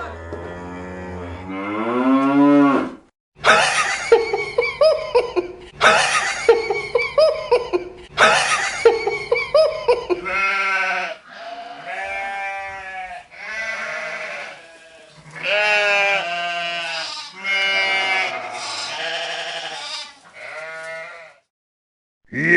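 Farm animals bleating, a long string of wavering calls one after another with short gaps between them.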